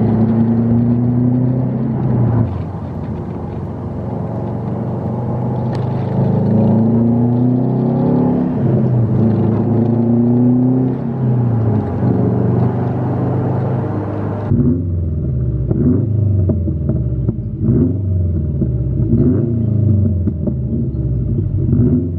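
Subaru WRX STI's turbocharged flat-four, heard from inside the cabin while accelerating on a COBB intake and Stage 1 tune: the pitch climbs, then drops at each gear change. About two-thirds of the way through, the sound cuts to a duller, muffled engine sound of the car heard from outside, rising and falling quickly.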